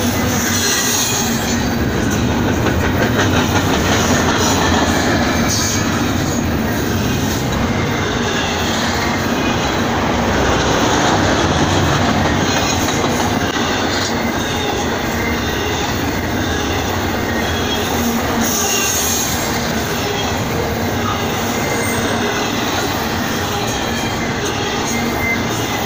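Double-stack intermodal freight train passing close by: steady loud rolling noise of steel wheels on the rails, with a few brief high wheel squeals.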